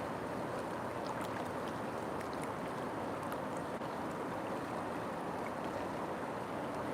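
River water flowing steadily, a continuous even rush with a few faint small splashes.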